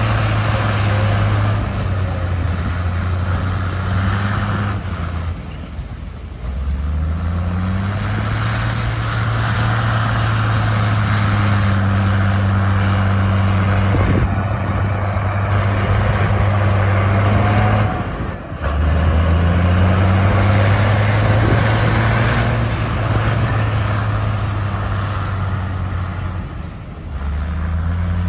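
Komatsu crawler bulldozer's diesel engine working under load. Its engine note drops briefly about three times and climbs back up each time as the dozer pushes dirt.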